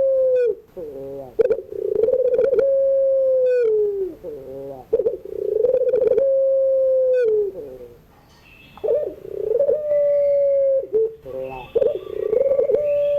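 A puter pelung, a long-voiced domestic ringneck dove, cooing over and over. Each coo is a long, low note held for about two seconds that drops at the end, followed by a short bubbling run of notes; there are about four of these. Faint higher chirps of other birds come in during the second half.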